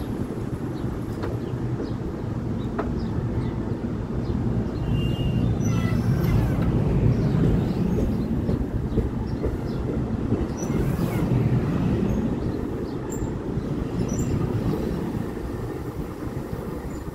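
NJ Transit bilevel commuter cars rolling past as the train pulls out: a steady low rumble of wheels on rail that grows louder through the middle and fades near the end as the rear cab car passes. A few brief high wheel squeals and light clicks sound over it.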